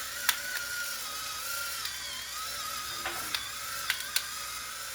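Scrambled eggs sizzling steadily in an oiled skillet, with a few sharp clicks of a utensil against the pan.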